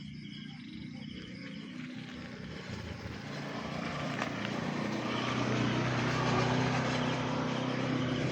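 A motor vehicle's engine running, getting steadily louder as it approaches, with a low steady hum under a broad rushing noise.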